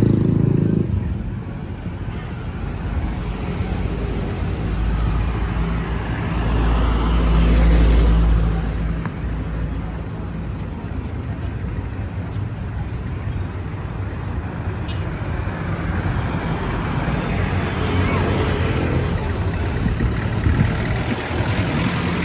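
Road traffic: motor vehicles running and passing, with one heavy low engine rumble that swells from about five seconds in and fades by nine.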